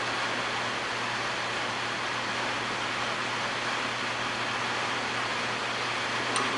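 Metal lathe running steadily, an even hiss over a constant low motor hum, while turning down a 3/16-inch stainless shaft.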